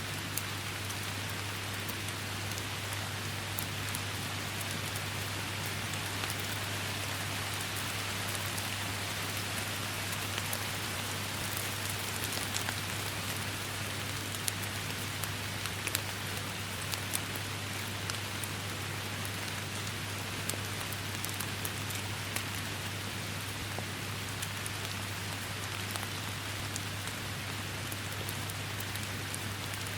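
Steady rain falling, with many individual drops ticking sharply over the hiss, and a steady low hum underneath.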